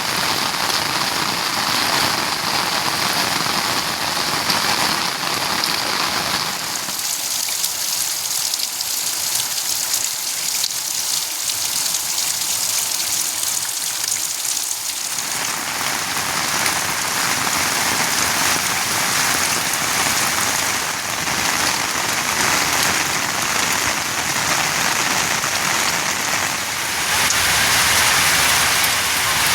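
Steady monsoon rain falling, an even hiss of drops. From about 7 to 15 seconds in, the deeper part of the sound drops away, leaving a thinner hiss, before the fuller rain sound returns.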